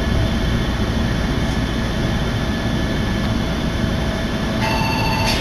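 Steady low rumble inside a Jōshin Line electric train as it runs into a station. About four and a half seconds in, a brief high tone sounds and cuts off.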